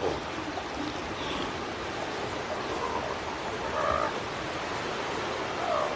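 Seals calling, a few faint short calls scattered over a steady wash of surf.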